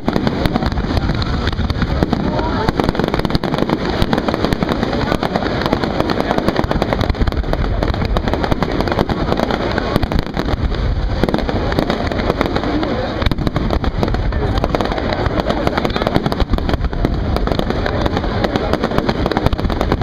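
Fireworks display: aerial shells bursting and crackling in a dense, unbroken barrage of bangs and pops.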